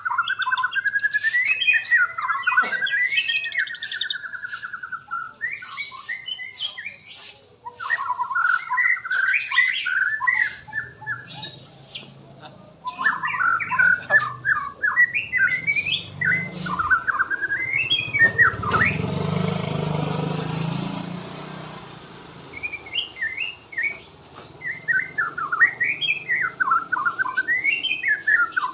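White-rumped shama (murai batu) singing: varied, rapid warbling phrases with sharp clicks and rising and falling whistles, broken by short pauses. A low rumble swells and fades about two-thirds of the way through.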